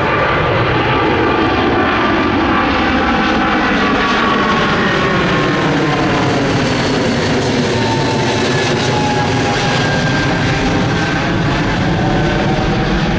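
Boeing 777's twin turbofan engines at go-around thrust as the airliner climbs away past the spotters. A loud, steady jet roar with whining tones that slowly slide in pitch as it passes.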